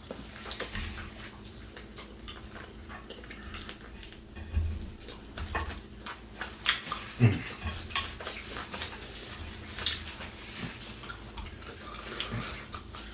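Close-miked eating sounds: chewing and mouth noises with scattered irregular clicks and taps of utensils on food containers.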